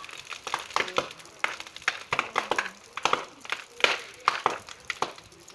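Large bonfire crackling: burning wood giving off irregular sharp pops, about three a second.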